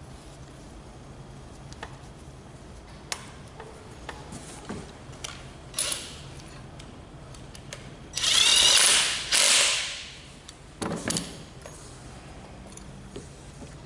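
Workshop tool noise on an engine: scattered clicks and knocks, then a loud mechanical burst about eight seconds in that lasts about two seconds with a brief break, and a shorter one about a second later.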